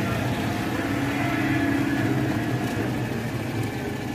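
Air-cooled flat-twin engine of a Citroën 2CV running as the car drives slowly past, a little louder about halfway through.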